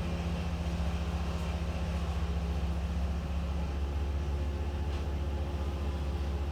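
A large engine running steadily with a low drone. A higher hum in it drops out a little over halfway through.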